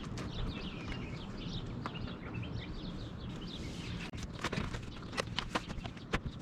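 Small birds twittering over a steady low hum, then a run of sharp clicks and knocks from about four seconds in.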